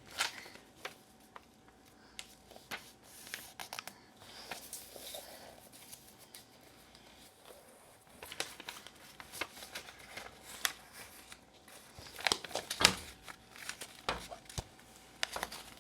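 A sheet of paper being handled and folded into a boat: scattered rustles, crinkles and small taps, with a cluster of sharper crackles near the end.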